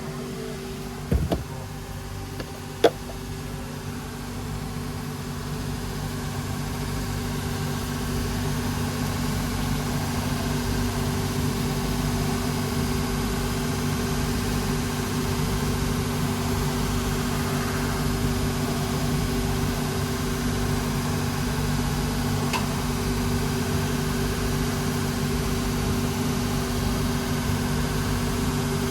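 Workshop machine motor running with a steady, low, multi-tone hum that builds up over the first several seconds and then holds even. Two short knocks sound in the first few seconds.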